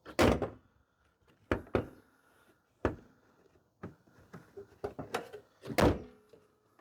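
A series of sharp knocks and thuds, about five spread over several seconds, the loudest just after the start and near the end: hand work on a car's damaged front-end bodywork.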